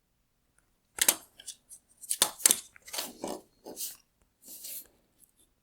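A run of sharp plastic clicks, cracks and scrapes starting about a second in and lasting some four seconds: hard plastic parts of a disassembled LED tail light being handled and worked.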